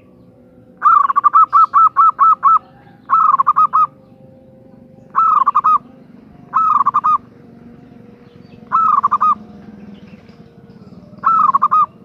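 Female zebra dove (perkutut) calling: six phrases of rapid, loud cooing notes, the first a long run of about nine notes, the rest short bursts of three to five notes spaced a second or two apart.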